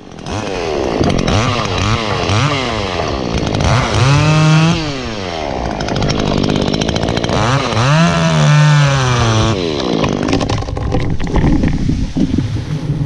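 Two-stroke chainsaw revved up and down over and over, with two longer high revs about four and eight seconds in. It starts suddenly.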